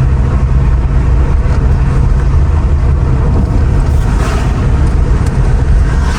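Steady low rumble of a moving Mercedes R129 SL500 heard from inside the car: road and wind noise mixed with its V8 engine running at an even speed.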